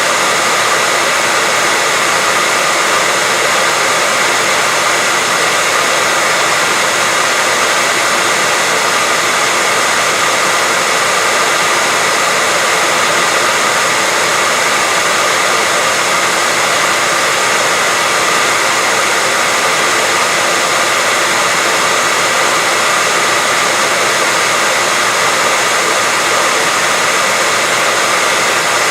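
Continuous white noise: a steady, even hiss that never changes, stronger in the treble than the bass, with a faint thin tone running through it.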